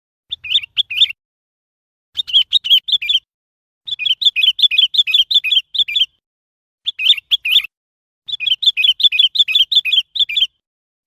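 Sooty-headed bulbul calling: five bursts of quick, repeated bright notes, each burst a second or two long, with short silent gaps between them.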